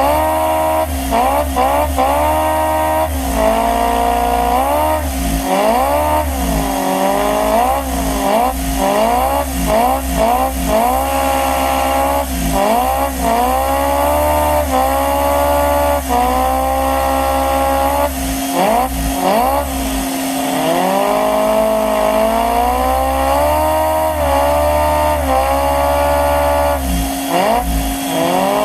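LEGO vacuum engine running and revving up and down over and over: a whine whose pitch keeps rising and falling, over a steady low hum.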